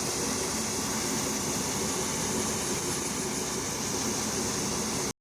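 Steady engine and fan noise of a harvest vehicle running, with a strong even hiss and no change throughout.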